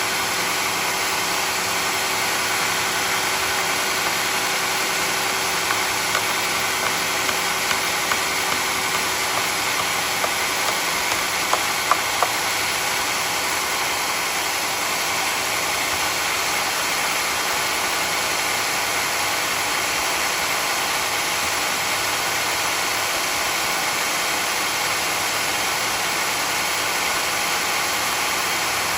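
Sawmill running steadily with an even mechanical drone and hum. A few sharp clicks come through about ten to twelve seconds in.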